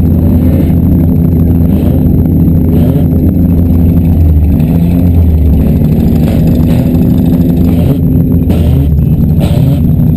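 Demolition derby cars' engines running loudly, their pitch wavering up and down.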